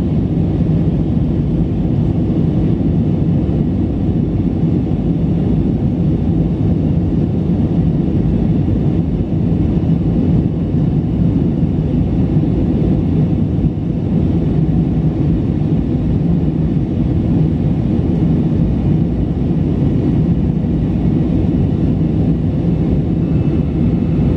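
Airbus A319 jet engines and rushing air heard from inside the cabin: a loud, steady, low drone with a faint steady hum under it.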